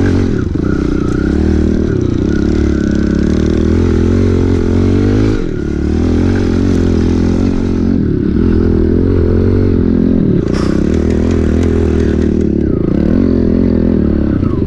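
Pit bike engine running under throttle while riding, its pitch rising and falling with the throttle, with a brief drop about five and a half seconds in as the throttle is rolled off.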